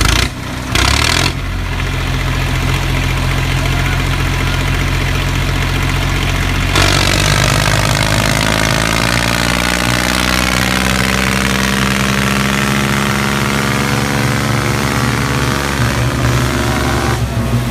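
Tractor diesel engine running steadily, with two short knocks in the first second and a half. About seven seconds in, the engine grows louder and brighter and its pitch slowly shifts as it takes up the load of the hydraulics working the trolley, easing back just before the end.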